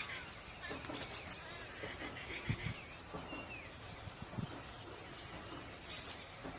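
Small birds chirping: short high chirps about a second in and again near the end, with a brief falling whistle in between, over a few low knocks.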